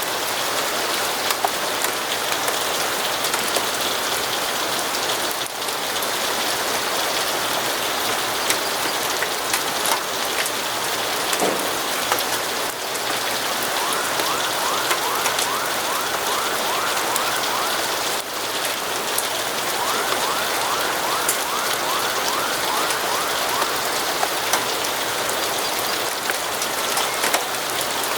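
Steady rain falling, an even hiss with scattered sharp clicks and pops. Twice in the middle, a rapid run of short repeated chirps rises faintly above the rain for a few seconds.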